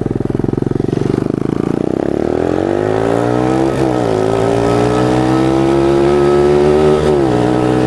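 110cc pit bike engine pulling away from a lumpy idle and revving up hard under acceleration, its pitch dropping sharply twice, about four and seven seconds in, as it shifts up a gear.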